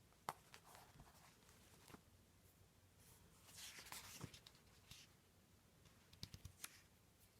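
Near silence, with a few faint clicks and a soft rustle of paper about halfway through, as a picture book's pages are handled and turned.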